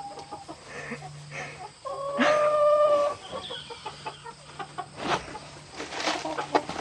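Chickens clucking, with one loud, drawn-out call about two seconds in that holds a steady pitch for about a second.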